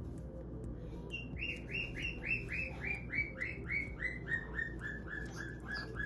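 A bird chirping in a quick, even series of short calls, about three or four a second, starting about a second in. Each call dips in pitch, and the series slowly falls in pitch as it goes on. Soft background music runs underneath.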